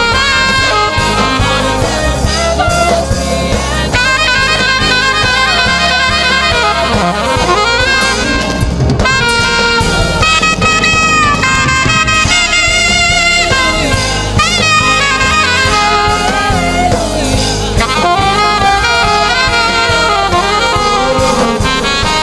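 Gospel worship band playing live: a saxophone carries the lead melody, with bends and wavering held notes, over keyboard, guitar and drum kit.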